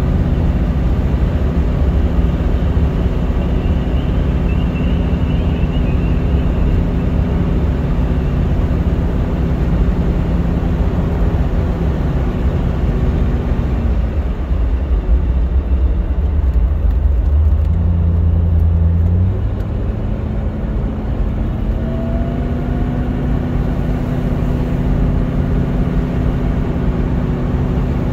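Mercedes-Benz 450SL's 4.5-litre V8 running at a steady cruise, heard from inside the cabin together with road noise. A little past the middle the engine note drops for a few seconds as the car slows, then rises back to its cruising note.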